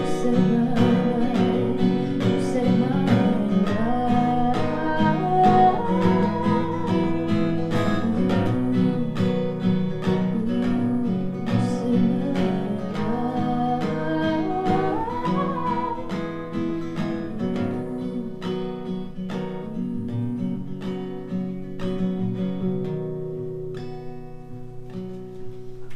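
Live acoustic guitar playing an instrumental passage of a song, with a higher melody line that slides up and down in pitch over the chords. It grows quieter near the end.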